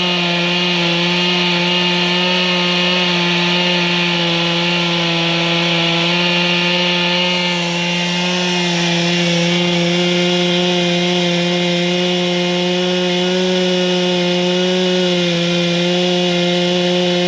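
Chainsaw running at steady high revs while sawing boards, its pitch holding nearly constant with a slight dip about halfway through and again near the end.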